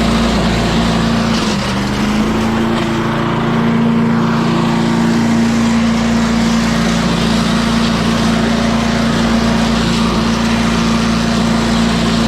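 Craftsman 8.5 hp wood chipper-shredder's small gasoline engine running steadily at full throttle, its pitch sagging briefly about two seconds in before recovering. It runs smoothly on a freshly cleaned carburetor.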